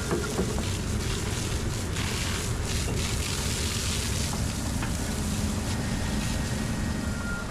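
Water spray hissing steadily while a truck is washed, over a low engine rumble.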